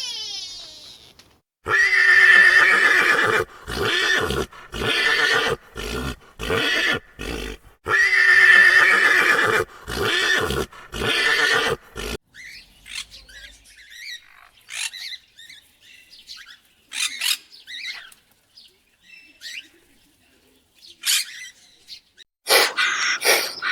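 A horse whinnying twice, about six seconds apart, each time one long call running into a string of shorter ones. Then a quieter stretch of faint, scattered chirps, and loud calls start again near the end.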